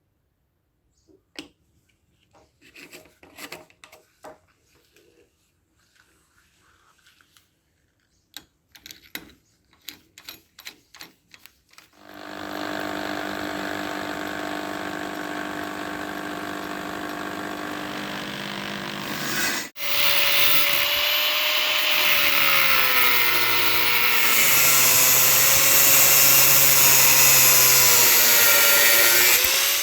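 Light clicks and taps of small metal parts being handled, then a power tool starts about twelve seconds in and runs steadily, cleaning rust off the small parts. After a brief break, a louder power tool cuts through the heater's metal legs, its pitch wavering up and down as it bites.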